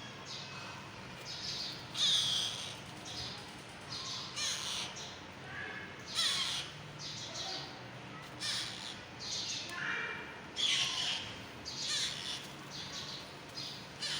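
Alexandrine parakeet chicks squawking in short, harsh calls, a new one every second or so, the loudest about two, six and ten and a half seconds in.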